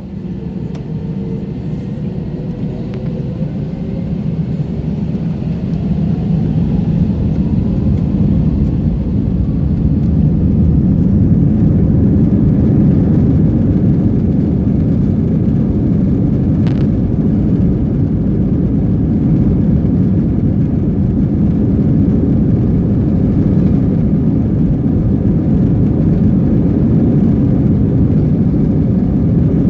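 Airbus A321's jet engines spooling up, heard from inside the cabin: a whine rising in pitch over the first several seconds while the level climbs, then a loud, steady rumble of the takeoff roll.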